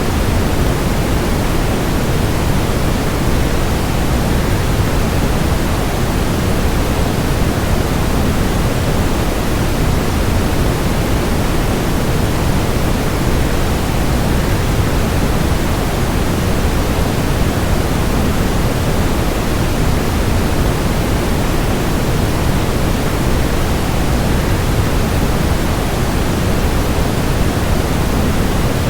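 Steady, unbroken rushing noise of a waterfall blended with white noise, strongest in the low range.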